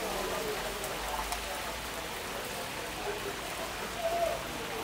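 Chicken and chips frying on a hot flat-top griddle: a steady sizzle.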